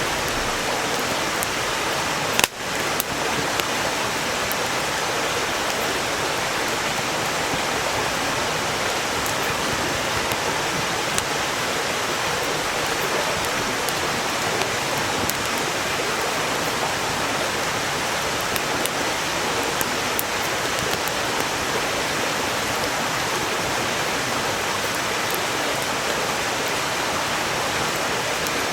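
A mountain stream flowing steadily, an even rushing sound, with faint crackles from burning firewood. One sharp click stands out about two and a half seconds in.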